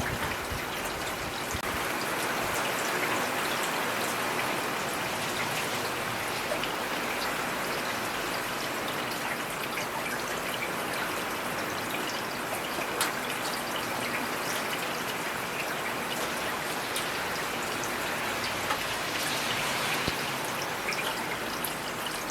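Heavy rain falling steadily in a dense, even hiss, with scattered drops ticking sharply close by.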